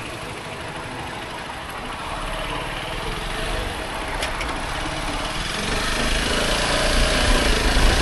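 Voge 250RR motorcycle engine running under way with wind noise, growing louder and rising in pitch over the last few seconds as it accelerates.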